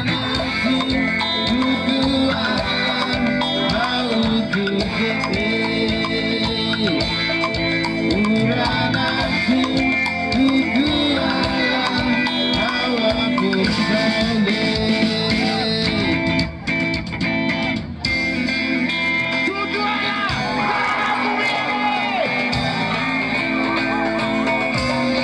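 Live band music with singing and guitar, the bass and drums dropping out briefly about two-thirds of the way through.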